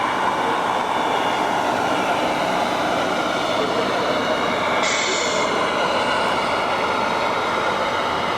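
Radio-controlled model trucks running, with the steady whine of their electric drives and gearing holding several faint tones at once; the sound shifts slightly about five seconds in.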